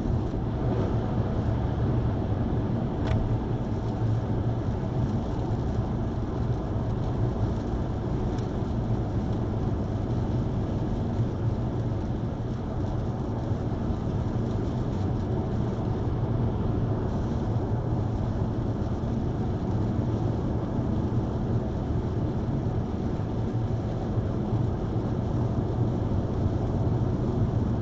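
Steady road and engine noise of a car driving, heard from inside the cabin through a dashcam, a constant low rumble, with one faint click about three seconds in.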